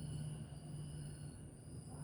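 Steady insect chorus, several unbroken high-pitched tones, over a low steady hum.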